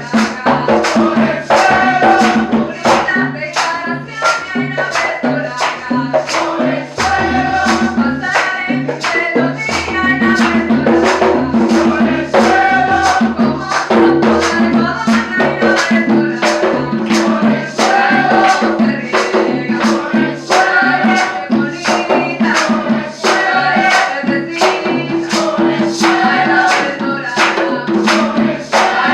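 A cumbia band playing live, with voices singing over a steady, evenly struck percussion beat. A deep bass line comes in about seven seconds in and drops out around fourteen seconds.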